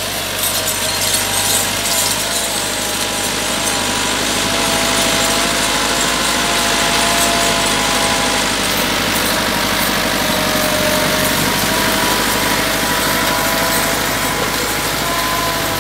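Massey Ferguson 385 tractor's four-cylinder diesel engine running steadily, with a continuous hiss and a few thin, high steady tones over it.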